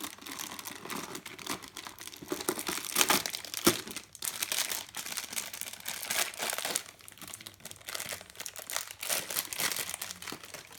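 Plastic toy packaging being crinkled and torn open by hand: an irregular crackle that keeps on, louder now and then.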